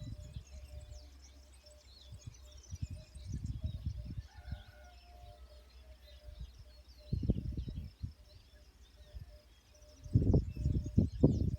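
Small birds chirping steadily, with irregular low rumbling bursts underneath that are loudest about seven seconds in and again near the end.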